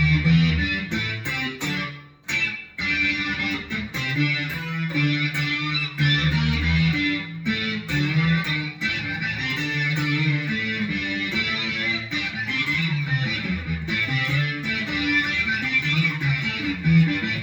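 Electric guitar played through a Boss SY-200 guitar synth pedal on its Sync Lead preset, into a Joyo American amp simulator with a little reverb: a synth lead line of held, changing notes, with a brief break about two seconds in.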